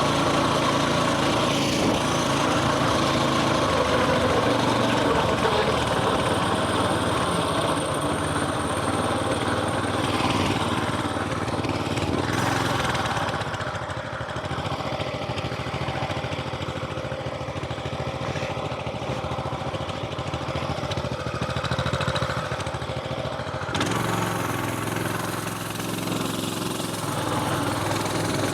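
Coleman mini bike's small single-cylinder engine running under way with a steady note. About halfway through it eases off for roughly ten seconds, then picks up again near the end.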